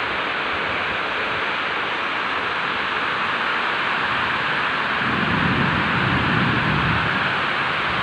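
Heavy rain pouring steadily in strong wind, a constant hiss, with a deeper rush that swells from about five to seven seconds in.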